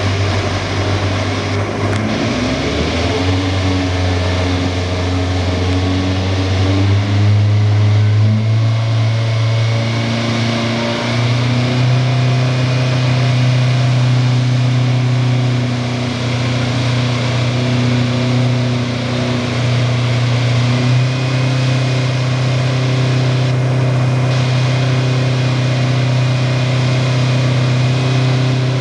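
Lexus SC430 GT500 race car's V8 engine running at a steady fast idle during an engine tuning session, its speed stepping up a little a few times and dipping briefly twice.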